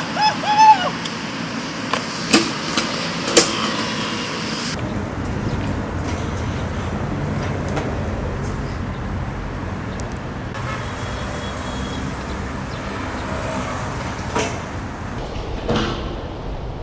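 Steady city street traffic noise, with a few sharp knocks in the first few seconds.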